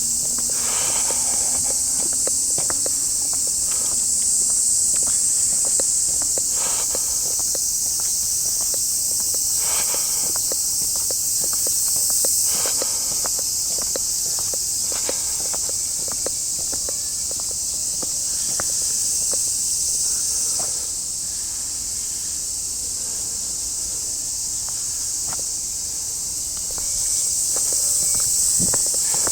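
A cicada chorus makes a steady, high-pitched buzzing, easing off for several seconds about two-thirds of the way through and then swelling again. Footsteps on a path tick beneath it.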